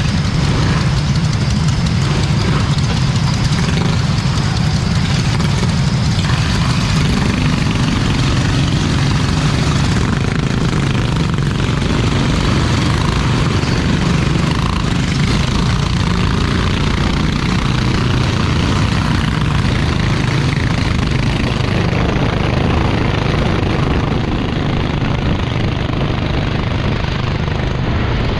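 Racing kart engine running with a steady low drone under a constant noisy haze; the whole thing eases slightly near the end.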